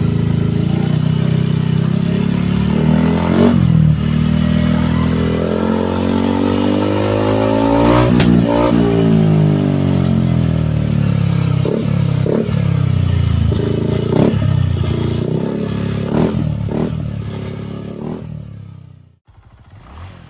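Yamaha NMAX scooter's single-cylinder four-stroke engine running through an aftermarket racing exhaust, revved from idle. One long rise and fall in pitch comes about halfway through, followed by several short throttle blips, and the sound stops shortly before the end.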